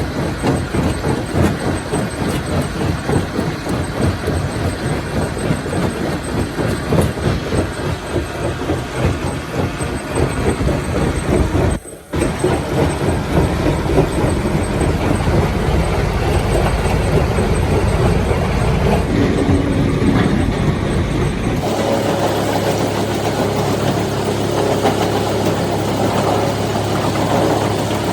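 A heavy engine running with a rough, uneven rumble. It cuts out briefly about twelve seconds in, and from about two-thirds of the way through it settles into a steadier, smoother idle with a low hum.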